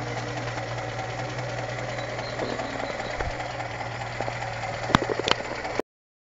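Four-cylinder engine of a 1953 Opel Olympia Rekord idling steadily with an even, rapid beat. A few sharp clicks about five seconds in, then the sound cuts off suddenly.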